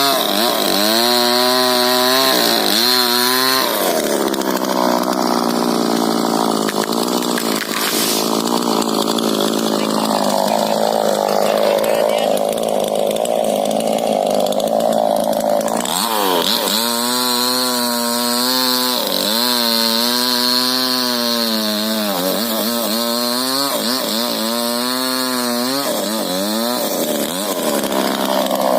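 Two-stroke chainsaw revving up and down in quick bursts, then held at a steady, lower pitch for about twelve seconds as it cuts into a rubber tree trunk, then revving up and down repeatedly again.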